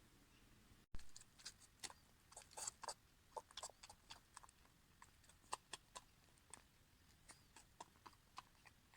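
An old miniature dachshund eating, with irregular short smacking and clicking sounds of its mouth and teeth.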